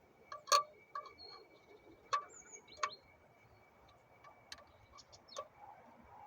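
Irregular sharp metallic clicks and clinks of hand tools, about a dozen, the loudest about half a second in, with a few brief high chirps between them.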